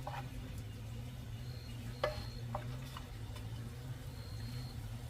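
A few scattered light clicks and knocks, the loudest about two seconds in, over a steady low hum, with a faint thin high tone coming and going.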